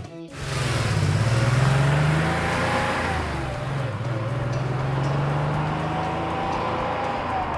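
Animated-cartoon vehicle engine sound effect: a steady engine hum that rises a little in pitch about a second in, then holds with a slight waver.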